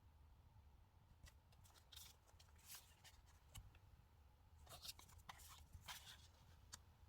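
Faint paper and sticker handling during diary decorating: short crisp rustles and small clicks in two brief flurries, over a low steady hum.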